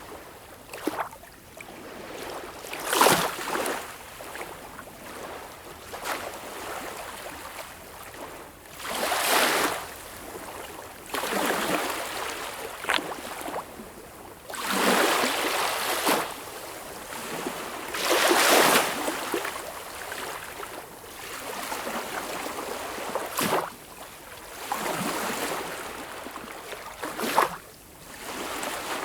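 Sea waves washing and splashing in irregular surges every few seconds, several with a sharp slap at their peak.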